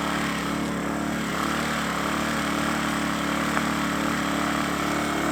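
Lifan ESI860i-CA 40cc inverter generator running steadily with an even engine drone, somewhat muffled.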